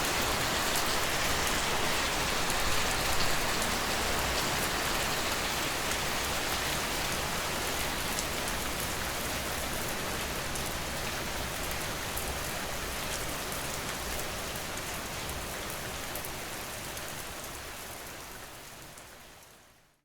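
Steady rain falling on a surface, a dense even hiss with scattered drop ticks, slowly getting quieter and fading out completely over the last couple of seconds.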